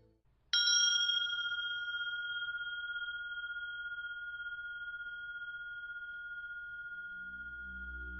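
A single struck bell, hit about half a second in, that rings on with a long, slow fade. Its higher overtones die away within a couple of seconds while a clear high tone lingers with a slight pulsing; a low musical drone comes back in under it near the end.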